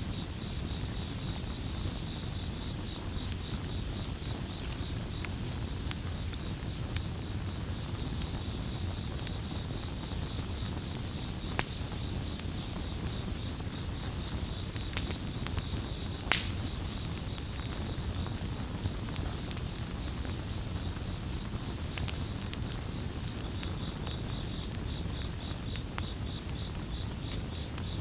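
Campfire crackling: a steady low rumble with scattered sharp pops, the two loudest about halfway through. A cricket chirps in a fast pulsing trill for the first half and again near the end.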